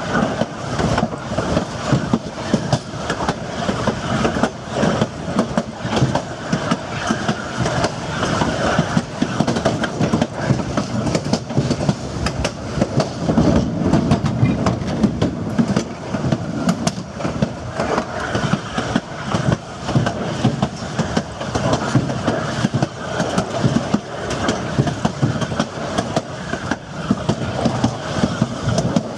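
Narrow-gauge passenger car of a steam train rolling along, its wheels clicking over the rail joints and the car body rattling and knocking in a steady run of rapid irregular clatter.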